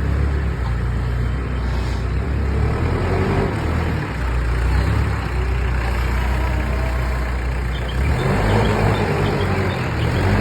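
ACE backhoe loader's diesel engine running under load, revving up and falling back several times as it works its hydraulics to shift soil, most strongly about eight seconds in.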